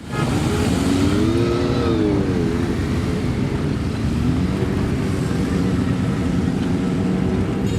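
Motorcycle engine running, its pitch rising and falling once a second or so in, then holding steady.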